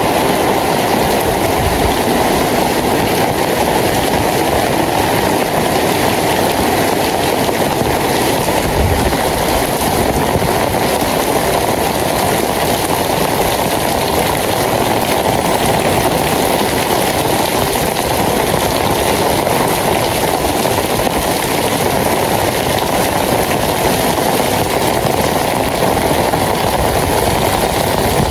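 Steady rain falling: an even, unbroken hiss with no change in level.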